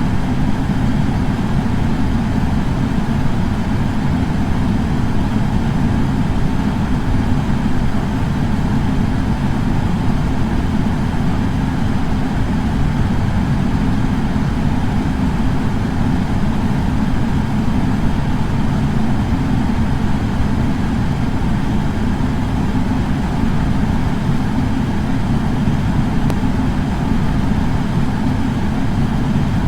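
Air purifier fan running steadily: an even, deep whoosh of moving air that does not change.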